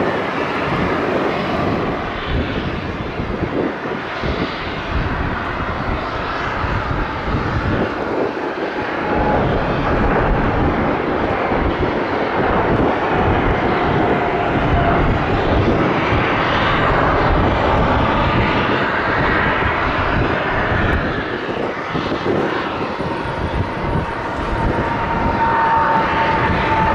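Jet airliner's engines running loud and steady, a dense roar with a faint whine that slides slightly down in pitch, once midway and again near the end.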